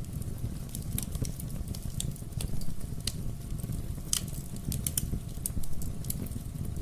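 Wood fire in a fireplace crackling: irregular sharp pops and snaps over a steady low rumble of the burning flames.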